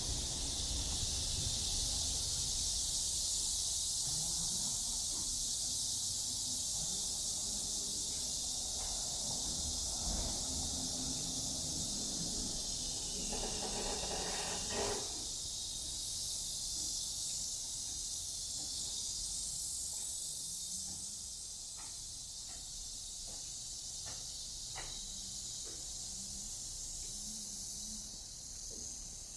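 A steady, high-pitched chorus of cicadas buzzing without a break, over a low background rumble, with a brief louder rush of lower noise about halfway through.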